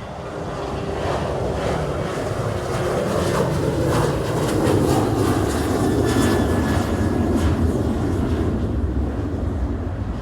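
Boeing 737 jet engines running at takeoff power, a dense rumbling roar that grows louder over the first few seconds and then holds steady.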